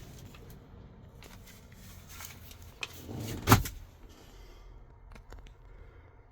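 Faint rustling and small clicks, then a single loud knock about three and a half seconds in: the truck's cab door being shut.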